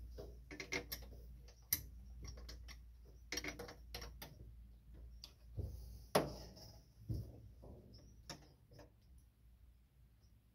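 Irregular clicks and light metallic taps of hand tools working on a Corvair's fuel pump mounting, with one sharper knock about six seconds in.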